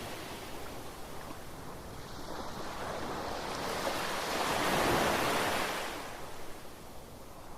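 Gentle ocean waves breaking on the shore: one wave swells to a peak about five seconds in and washes out.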